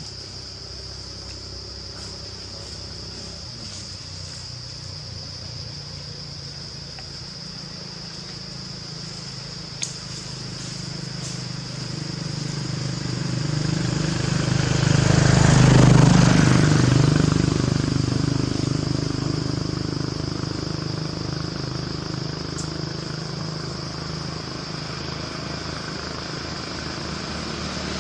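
A motor vehicle approaches and passes, its engine loudest about sixteen seconds in and then fading, with another vehicle coming up near the end. A steady high-pitched insect drone carries on underneath.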